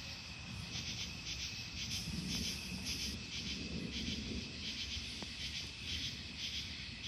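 Night insects chirping in a steady, even pulse of about three chirps a second. A low rumble of distant thunder swells underneath from about two seconds in and fades by about four and a half seconds.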